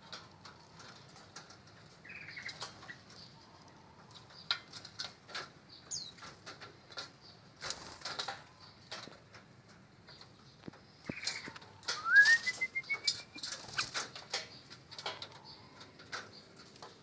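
Birds in an aviary, their wings flapping and fluttering in many short sharp bursts, with a few brief chirps. A rising whistled call comes about twelve seconds in.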